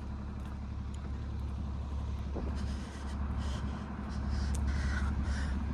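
Street background: a steady low rumble of road traffic, with faint swells of passing vehicles.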